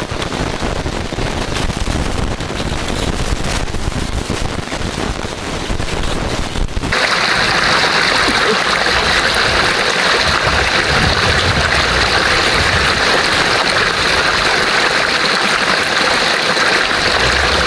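Steady rushing of flowing water, like a stream. It is rougher and mixed with low rumble at first, then switches abruptly about seven seconds in to an even, hissing rush.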